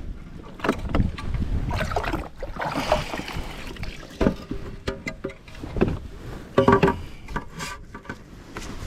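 Water splashing alongside a fishing kayak, with irregular knocks and clatter on the boat, while a hooked bass is fought and landed.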